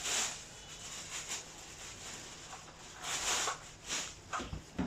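Rustling and light clicks and knocks from unboxed vacuum cleaner parts and their packaging being handled, in short bursts: one right at the start, a longer one about three seconds in, and a few clicks near the end.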